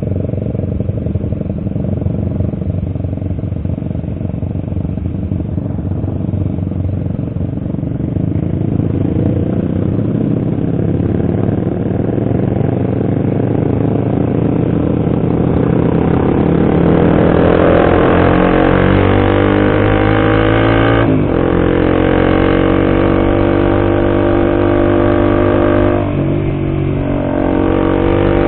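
Honda CBR150R's single-cylinder engine under way with wind rush, then accelerating hard: the revs climb steadily, drop at an upshift and climb again, twice in the last ten seconds.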